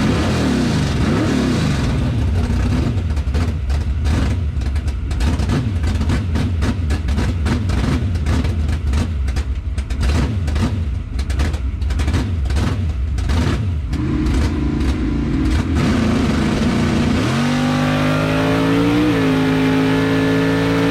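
The 1976 Chevrolet Vega drag car's engine running rough and uneven, then revving up about 17 seconds in and holding at a steady higher speed.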